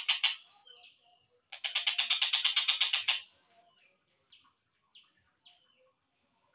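Tengkek buto (kingfisher) recording slowed down: a loud, fast rattling trill of about ten notes a second that ends just after the start and returns at about a second and a half for some seconds, with a short rising whistle between the two and scattered faint chirps after.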